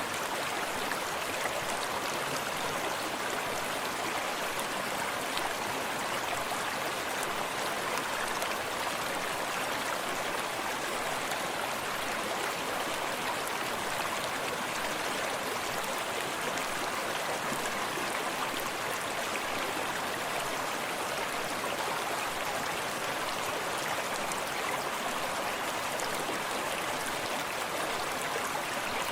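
A small forest stream running steadily, with water lapping close by and a constant rushing hiss centred in the middle range, with fine splashy detail in the highs.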